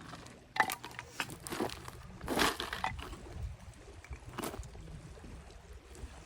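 Firewood being handled and laid in a ring of stones for a campfire: a few sharp knocks and clacks, with a short scraping rustle about two and a half seconds in.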